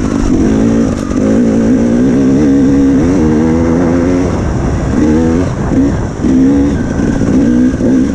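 Dirt bike engine revving hard under load, climbing a long hill. The pitch wavers up and down with the throttle, dipping briefly twice in the middle.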